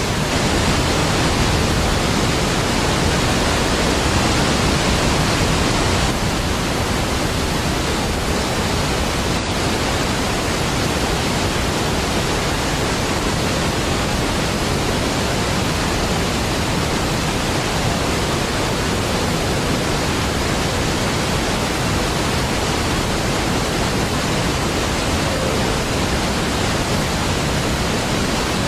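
Large waterfall: a steady, dense rush of falling water, full from deep bass up through the highs, easing slightly about six seconds in.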